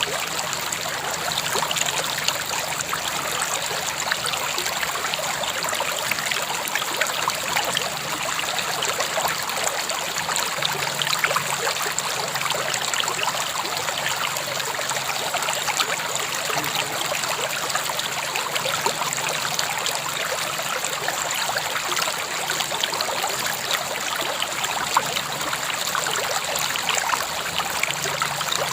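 River water flowing and splashing in a steady, unbroken rush, with fine trickling detail.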